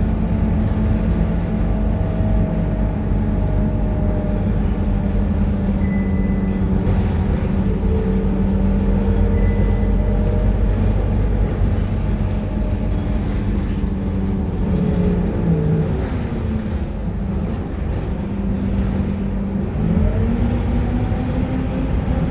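Scania K230UB city bus's diesel engine running steadily under way, its note dipping and climbing again twice in the second half. Two short high beeps sound about six and nine seconds in.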